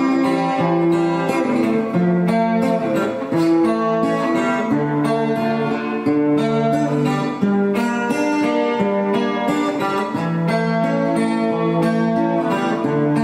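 Acoustic guitar fitted with a piezo pickup, played solo: a melody picked out over strummed chords.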